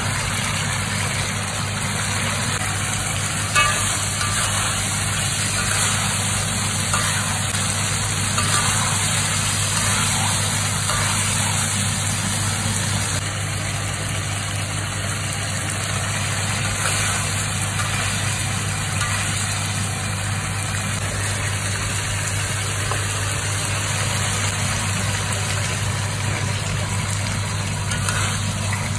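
Sambal sizzling in a wok while a metal spatula stirs it, with faint scrapes and ticks, over a steady low hum.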